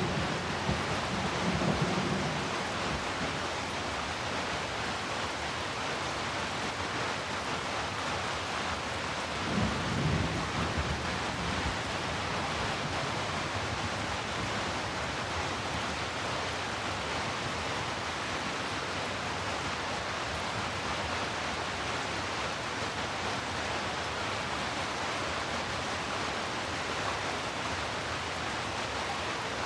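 Heavy rain falling in a steady, even hiss, with a low rumble of thunder in the first couple of seconds and another brief rumble about ten seconds in.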